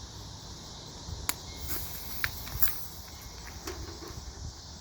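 Steady high chirring of crickets, with a handful of faint sharp clicks about one to three seconds in.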